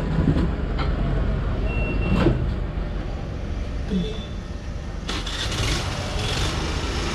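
Vehicle engines running with a steady low rumble, with two short high electronic beeps a couple of seconds apart and a rising hiss in the second half.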